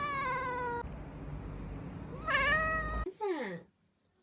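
A cat meowing: a long, drawn-out meow that falls in pitch, a shorter meow about two seconds in, then a quick cry that slides downward just after the three-second mark.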